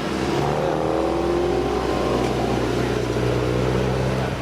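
Car engine running: its pitch climbs over the first second or so, then holds steady before dropping away near the end.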